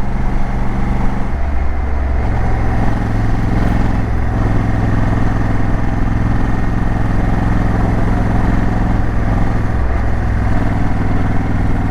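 Motorcycle engine running under way, its note dropping and rising in steps a few times, with steady wind and road rush on the microphone.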